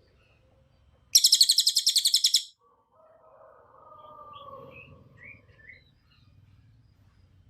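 Cililin songbird singing: one loud, very high rapid trill lasting about a second and a half, about a second in, followed by fainter, lower warbled notes and a few short chirps.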